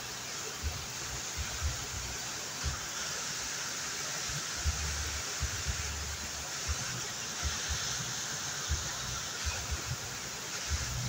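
Waterfall rushing steadily, with scattered short low thumps.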